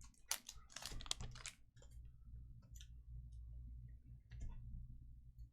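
Trading cards being handled and slid into plastic top loaders: soft scattered clicks and brief rustles, a little busier in the first second or so, over a low steady hum.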